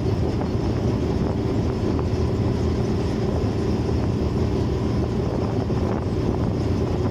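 Motorcycle engine running at a steady cruising speed, with road and wind noise.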